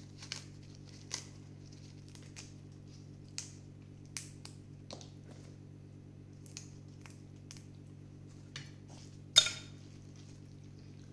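Light clicks and taps of utensils against a bowl and dishes, about a dozen scattered through, with one louder clack about nine seconds in, over a steady low hum.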